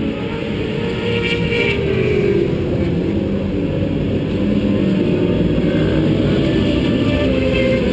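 Vehicle engine under hard use on a race track, seen from onboard. Its note falls as it slows about a second in, then picks up and varies in pitch as it accelerates, over steady wind and road noise.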